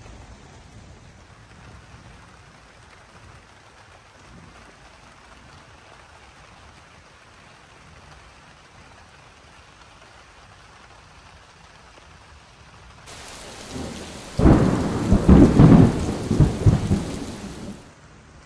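Steady rain, then about thirteen seconds in a loud thunderclap and rumble of an approaching thunderstorm that lasts several seconds and cuts off abruptly.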